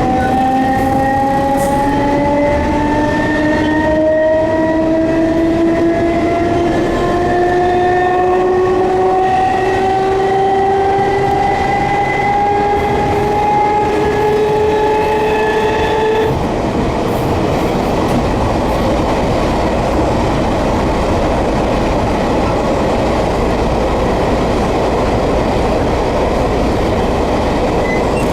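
Enshu Railway 30 series electric car's nose-suspended traction motors whining and rising steadily in pitch as the train accelerates, heard from inside the car. About sixteen seconds in the whine cuts off suddenly, leaving the steady rumble of the wheels on the rails.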